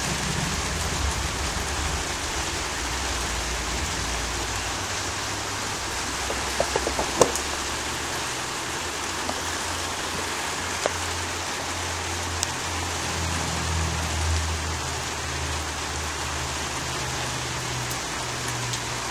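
Heavy rain pouring down steadily. A few sharp clicks come about seven seconds in, and a low rumble swells around two-thirds of the way through.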